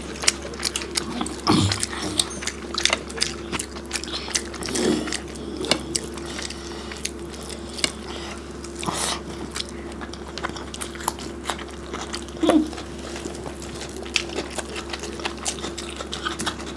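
Close-miked eating of rice and curry by hand: chewing and biting, heard as a running series of short sharp clicks with a few louder bites. A steady low hum runs underneath.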